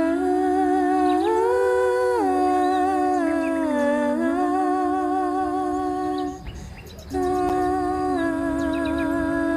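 Background music: a voice humming a slow melody in long held notes with vibrato, pausing briefly about six and a half seconds in.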